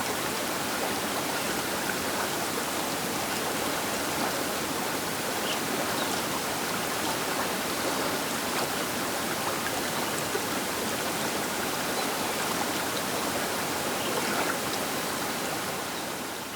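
Baker River running: a steady, dense rush of flowing water, beginning to fade out near the end.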